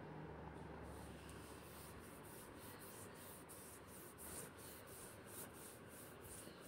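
Faint sizzling of chopped spinach frying in hot oil in a stainless-steel kadhai, with a soft, uneven crackle.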